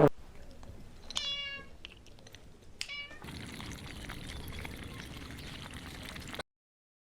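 A cat meowing twice: a longer call about a second in and a shorter one a second and a half later. Afterwards there is a soft steady hiss, which cuts off to silence near the end.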